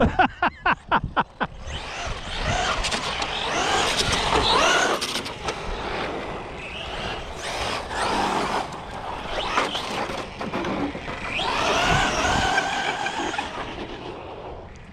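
Electric RC cars driving hard on asphalt: motor whine rising and falling with the throttle over tyre noise. The whine follows a quick run of clicks in the first second or so.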